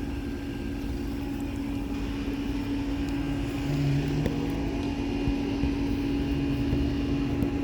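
Outdoor air-conditioner condensing units running: a steady electrical-mechanical hum with a low rumble underneath, and a second lower tone that comes in briefly about halfway through.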